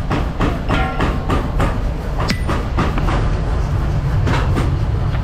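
Heavy machinery running with a steady deep rumble, with irregular sharp knocks a few times a second.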